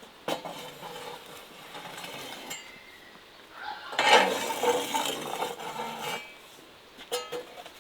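Dishes, pots and cutlery clinking and clattering, with a sharp knock just after the start and the loudest, ringing clatter about four seconds in.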